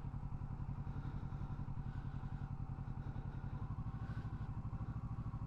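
Motorcycle engine running at a steady, low RPM with an even pulse, held there on the clutch and throttle during a slow, tight U-turn.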